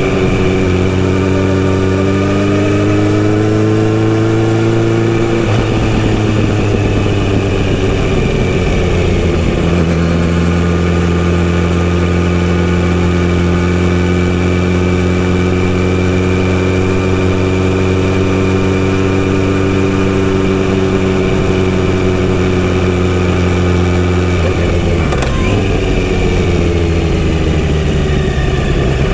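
Kawasaki Z900RS inline-four engine through a full-system exhaust, running steadily on the move. The note rises and falls gently, shifts in pitch around 6 and 10 seconds in, and dips again near the end.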